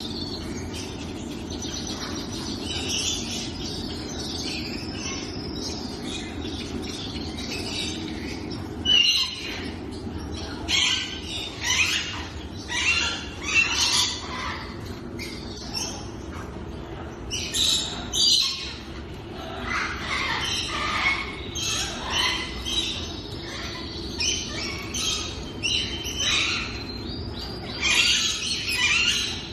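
Several birds calling, with many short, irregular calls high in pitch coming thicker from about nine seconds in. A steady low hum runs underneath.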